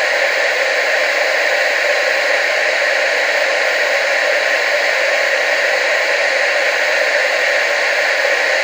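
Analogue TV static: a steady, even hiss with no change, sitting mostly in the middle and upper range with almost no bass.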